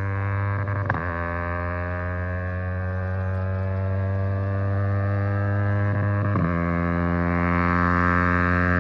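Yamaha R15M's 155 cc single-cylinder engine through an aftermarket Akrapovic-copy exhaust, running at steady revs with a slowly rising level. The pitch dips briefly and recovers twice, about a second in and again at around six and a half seconds.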